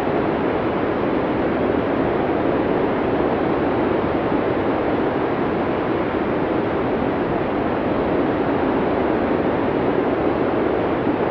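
Blizzard wind from a classic Cinesound arctic storm sound effect: a steady, even rush of storm wind, with no single gust standing out.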